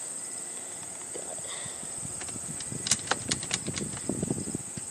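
A quick run of sharp clicks and dull knocks starting about three seconds in and lasting about two seconds, as the dirt bike is handled before starting; its engine is not running. A steady high insect drone from crickets runs underneath.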